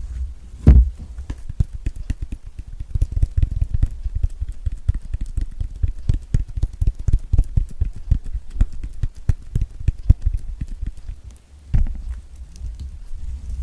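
Fingertips and nails tapping quickly and repeatedly on the peel of a large, thick-skinned orange, with low thumps as it is knocked and rolled on the table. A louder knock comes just under a second in and another near the end.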